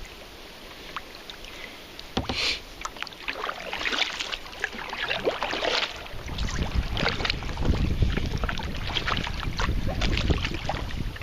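Water splashing and knocking around a sea kayak: irregular paddle splashes and hard knocks on the hull. About halfway through, wind starts buffeting the microphone with a low rumble.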